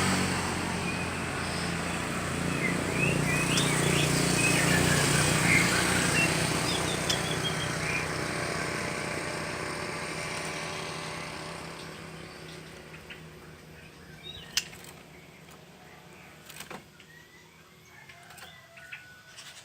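A motor vehicle's engine running steadily and fading away over about ten seconds, with small birds chirping over it in the first half. Two sharp knocks sound near the end.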